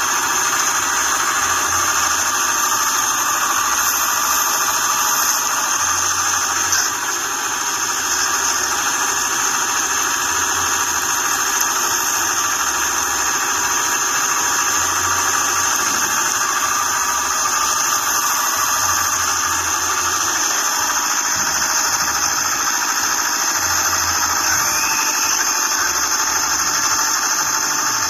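Homemade excavator's motor running steadily with a high-pitched whine, and a low throb that comes and goes every second or two.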